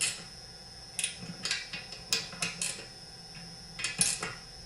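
Metal hand tools clicking and clinking on the McCulloch CP125 chainsaw's engine block as its screws are checked for tightness: about nine sharp, uneven clicks.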